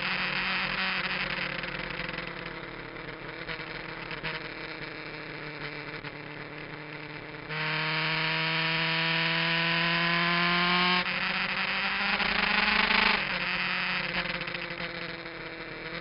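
Kawasaki GPZ900R inline-four with an aftermarket muffler, heard on board at speed: the engine note falls slowly, then about halfway through the throttle opens and it gets louder with the revs climbing for several seconds before backing off near the end.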